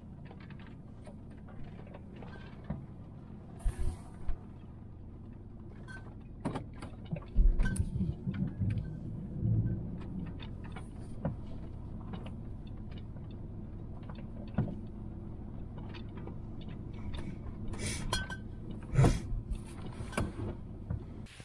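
Van driving slowly with a steady low rumble from the road and engine, with loose gear inside rattling and knocking now and then, most busily about seven to ten seconds in and again near the end.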